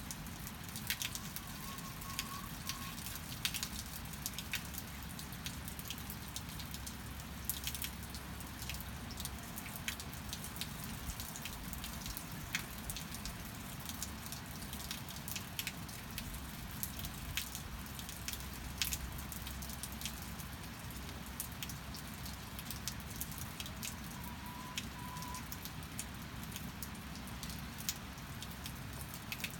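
Steady rain with frequent sharp drips ticking. Two faint short calls from the hens come about two seconds in and again late on.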